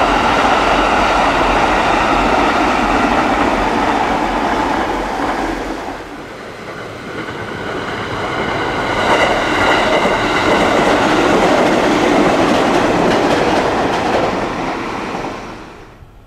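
A train passing close by, then after a short dip a JR Kyushu 811 series four-car electric train running past with clattering wheels and a whine about midway. The sound fades out near the end.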